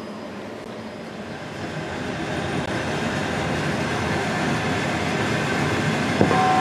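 Passenger train running, steady wheel-and-rail noise heard inside the carriage, growing louder about a second and a half in. Near the end a steady on-board chime tone starts, ahead of the next-station announcement.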